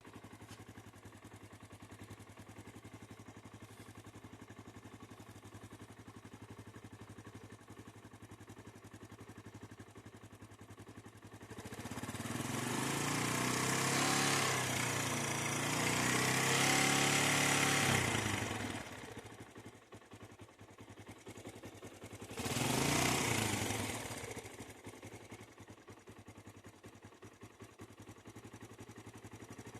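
SYM Wolf motorcycle engine idling, revved up for several seconds and let fall back, then given one shorter rev before settling to idle again. It is run to show an abnormal noise.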